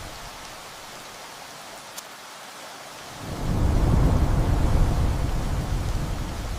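Steady rain with a low rumble of thunder that swells about three seconds in, rolls on for a few seconds and eases off near the end.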